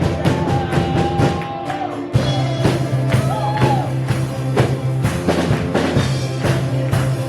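Live band playing between sung lines: a steady drum-kit beat with a held bass line that changes note about two seconds in, and a melody line above.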